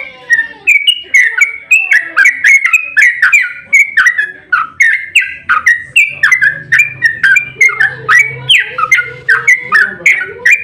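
Yellow-vented bulbul (trucukan) singing a long, unbroken run of quick bubbly notes, about three a second, in the rapid continuous style bird keepers call "ropel".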